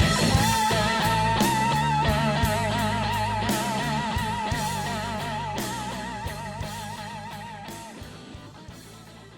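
Blues band recording fading out at the end of a song. A long held note with vibrato, doubled by a second line, sustains over bass and drum hits and stops near the end as the music dies away.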